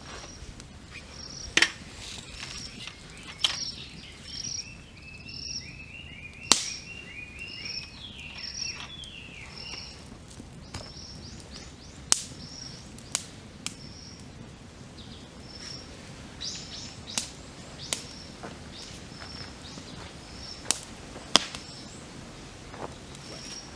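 Wood campfire crackling with sharp pops every second or two, while birds sing: one repeats a short high note over and over, and another gives a quick run of lower falling notes about five seconds in.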